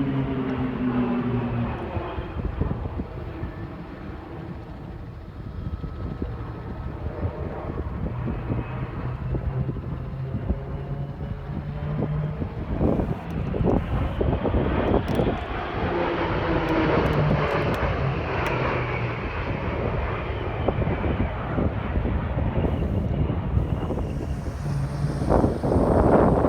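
Aircraft engine noise from a flypast, with a falling pitch at the start as the plane passes. It dips a few seconds in, then swells again into a steady drone.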